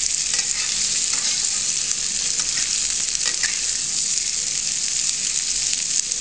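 Diced potatoes and onions sizzling steadily in hot oil in a kadai, with a steel spatula scraping the pan now and then as they are stirred.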